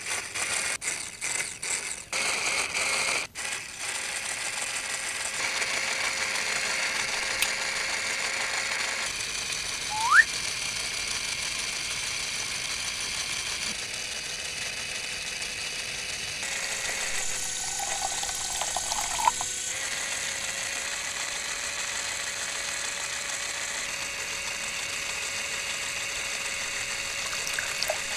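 A small motor-driven gear mechanism, clicking rapidly for the first few seconds, then running with a steady whir; a short rising whistle comes about ten seconds in.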